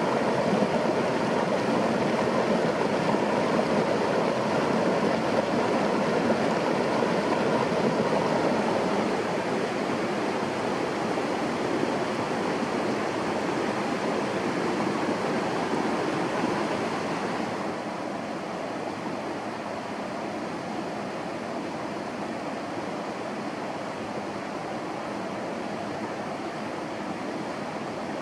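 Steady rushing of running water, with no distinct events; it becomes quieter about a third of the way in and again a little past halfway.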